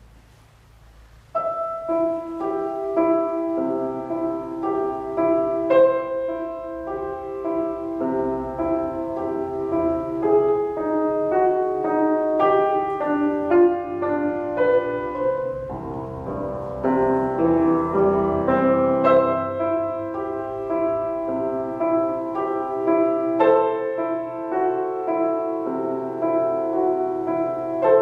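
Solo piano playing a piece, starting about a second in with a steady run of single notes and chords.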